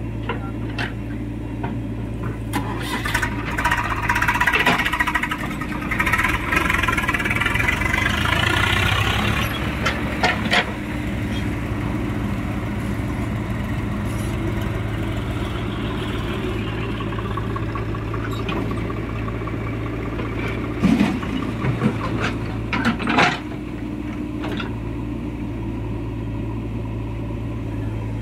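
Diesel engine of a JCB 3DX backhoe loader running steadily while it works, with a higher whine rising and falling as it is worked harder over several seconds early on. Several loud knocks and clanks come a little before the middle and again about three quarters of the way through.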